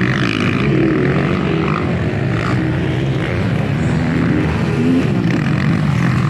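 Several motocross bikes racing, their engines revving up and down and overlapping as they accelerate and shift.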